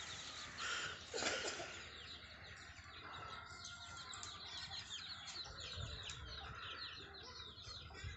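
Faint bird calls in a tree: a brief louder call about a second in, then many short, high chirps repeating.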